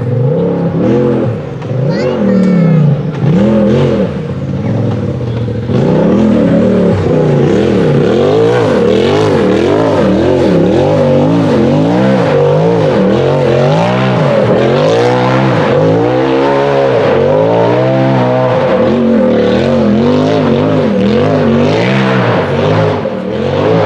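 Turbocharged UTV buggy engine revving up and falling back over and over, about once a second, as the throttle is worked hard under load on a steep climb.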